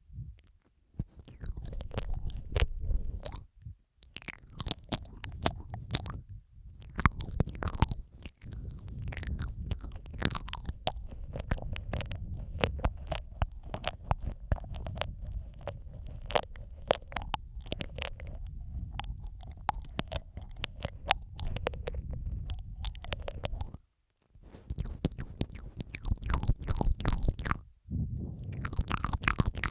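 Close-miked ASMR mouth sounds laid over one another: wet clicks, smacks and licking noises over a low rumble. They pause briefly a few times, at about four, eight, twenty-four and twenty-eight seconds in.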